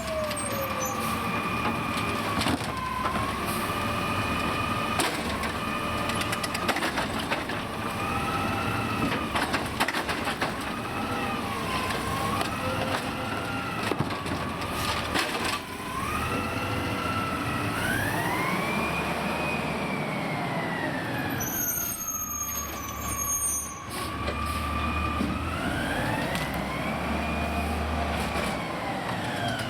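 Autocar garbage truck with a New Way automated side-loader arm, its engine revving up and down to drive the hydraulics, with a whine that rises and falls with the revs. Sharp knocks of the recycling cart being slammed and shaken over the hopper come in clusters in the first half.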